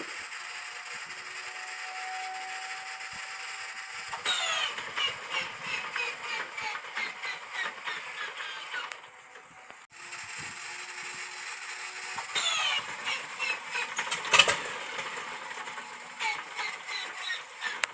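An An-2's ASh-62IR nine-cylinder radial engine being cranked with its inertia starter. The starter's whine winds up, then about four seconds in it engages and the engine turns over with rapid rhythmic pulses as the whine falls in pitch. After a break the same wind-up and cranking repeat, with one sharp loud bang partway through.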